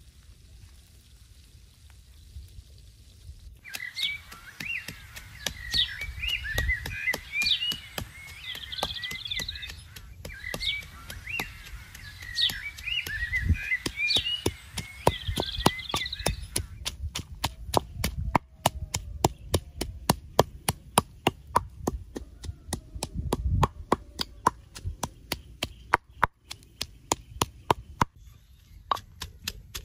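Wooden pestle pounding garlic and red chillies in a wooden mortar. It starts a few seconds in and keeps up steady knocks of about three a second. Birds chirp over the first half of the pounding.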